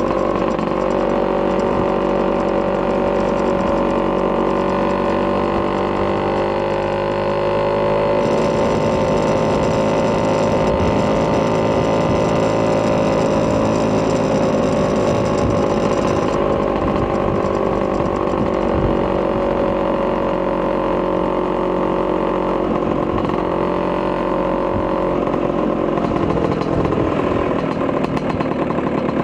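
Vespa PX200's single-cylinder two-stroke engine, bored out with a Polini 210cc kit and breathing through a Malossi expansion chamber, running steadily, its pitch drifting slightly up and down.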